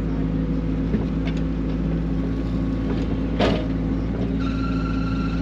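Mini excavator's diesel engine running steadily while digging, with a few knocks from the bucket working rock and a louder clank about three and a half seconds in. A high whine sounds for about a second near the end.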